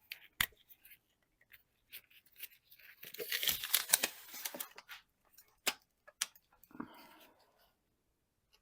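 A sheet of foil-backed sound deadener being handled and cut or torn: scattered sharp clicks and crinkles, with a longer rasping tear about three to five seconds in.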